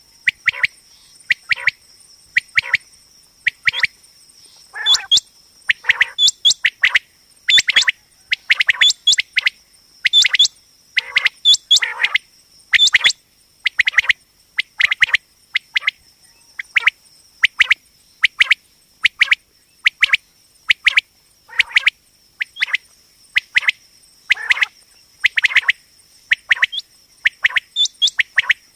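Common quail calling over and over: short, sharp calls in quick groups of two or three, repeated every second or so without a break. A faint steady high-pitched whine sits underneath.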